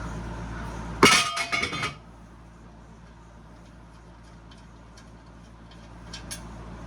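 A cast aluminum part dropped onto other metal scrap: one loud, ringing clatter about a second in that dies within a second, then a few faint clinks near the end.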